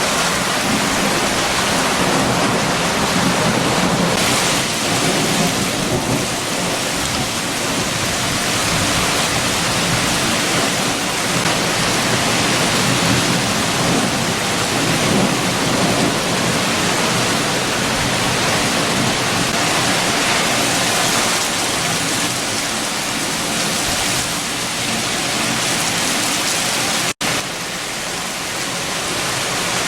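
Heavy rain falling steadily with strong wind, a dense even hiss with a low rumble beneath it. The sound cuts out for an instant near the end.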